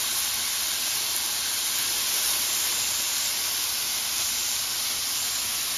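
Chicken tikka skewers sizzling steadily in hot oil in a large frying pan.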